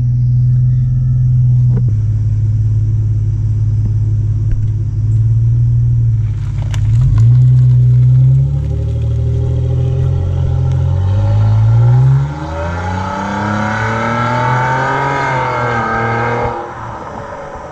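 2016 Nissan Maxima's 3.5-litre V6 running through a muffler-delete exhaust, with the rear mufflers removed: a loud, steady low rumble. The engine revs up once or twice about eight to twelve seconds in. For the last few seconds the note turns higher and wavers, then cuts off near the end.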